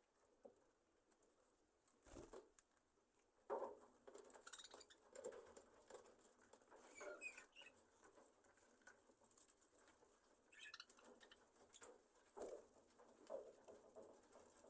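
Faint rustling, scratching and pattering from budgerigars settling for the night, with a few short, soft chirps about halfway through and again a few seconds later.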